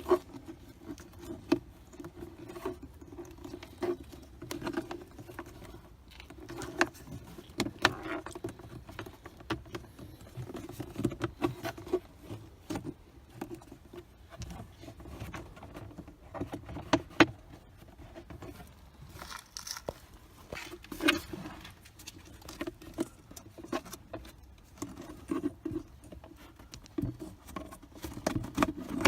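Hands handling plastic car-interior parts at the glovebox and cabin air filter housing: irregular light clicks, taps and rattles, with a few sharper knocks.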